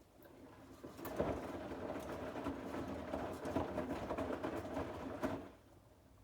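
Bosch WAX32GH4GB washing machine running during its dark-wash detergent streak prevention stage. A steady hum with many small clatters starts about a second in, runs for some four and a half seconds and stops near the end.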